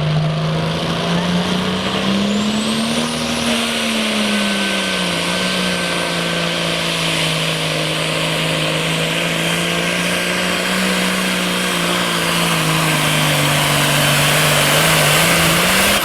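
A super stock/pro stock pulling tractor's turbocharged diesel engine at full throttle under load during a pull. It runs at a steady, high-powered pitch that climbs briefly early on, holds, rises again just before the end and then drops away as the run ends.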